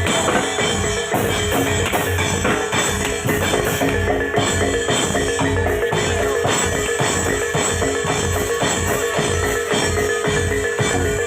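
Javanese gamelan-style music accompanying a reog Singo Kubro dance: fast, dense drumming and metal mallet percussion in an even rhythm over a steady held note.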